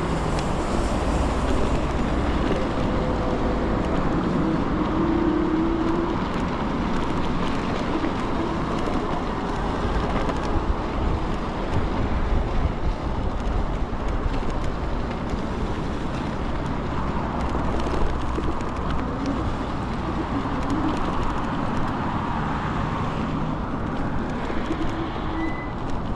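Steady ride noise from an Ikingi S6 Pro electric scooter moving along a city road: a continuous rumble of tyres and frame, with road traffic around it.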